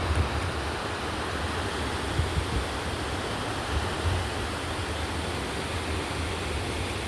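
A river rushing steadily, with wind rumbling on the microphone.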